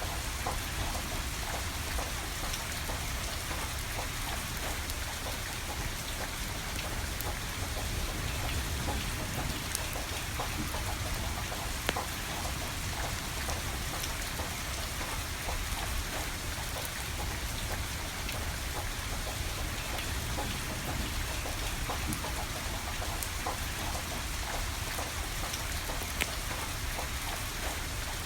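Steady rain falling, with scattered sharp crackles and pops from a burning wood fire, a couple of them louder than the rest.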